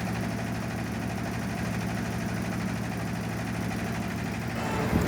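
Boat engine running steadily with a fast, even low throb.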